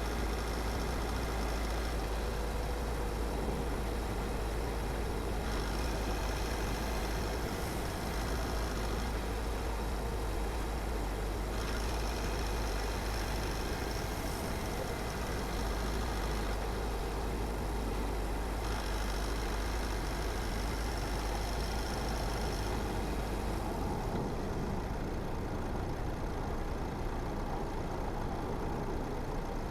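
Steady noise of a car driving: tyre and road rumble with engine hum. A deep low rumble eases off about three-quarters of the way through.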